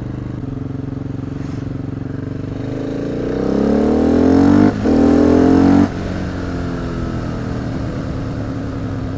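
Husqvarna 701's single-cylinder engine with its exhaust run without the dB-killer insert, cruising steadily and then opened up hard about three seconds in: loud, rising revs, a brief dip for an upshift, more rising revs, then the throttle shut suddenly about six seconds in, dropping back to a steady cruise.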